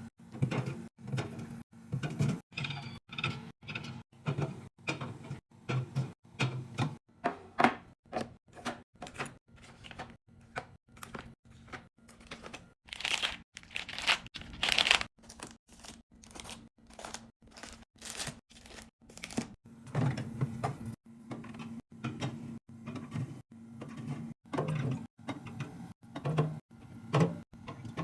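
Quick succession of short handling sounds, such as packaged snacks and drinks being picked up, set down and rustled, with a stretch of crinkling packaging about halfway through.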